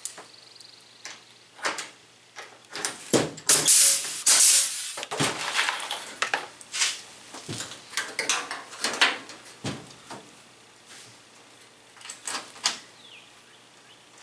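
Shop work on sheet-metal trim pieces: irregular knocks, clanks and scrapes of metal being handled and fitted, with a loud burst of hiss about four seconds in.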